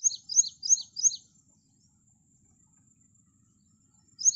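A bird calling a quick series of four high, downward-sliding notes, about three a second, then starting the same series again near the end.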